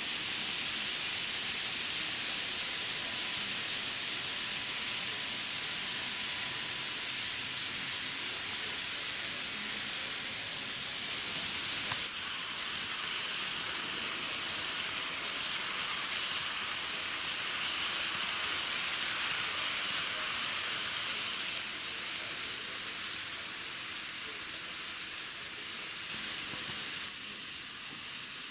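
N-gauge model train running on its track: a steady hissing whir from the wheels and small motor, which changes abruptly about twelve seconds in and drops a little near the end.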